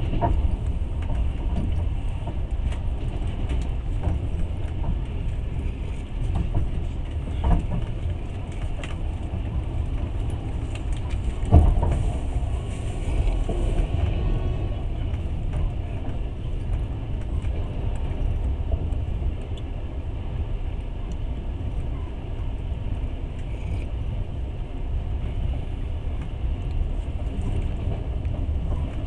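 Passenger train running, heard from inside the carriage: a steady low rumble of wheels on rails, with a sharp knock about seven seconds in and a louder one near the middle.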